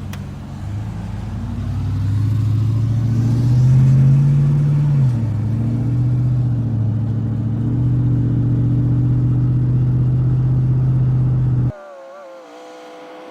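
Car engine running loudly, its pitch climbing to a peak about four seconds in, then dropping and holding steady. It cuts off suddenly near the end, leaving a much quieter steady tone.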